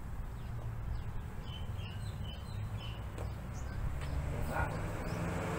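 Steady low background rumble, with a few quick high bird chirps about two seconds in.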